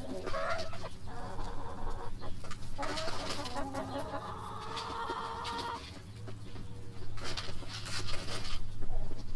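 Chickens clucking over a steady low hum, with a louder, noisier stretch near the end.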